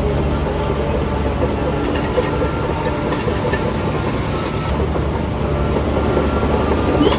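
A Shantui DH17C3 crawler bulldozer's diesel engine running steadily under load, with the continuous clatter of its steel tracks.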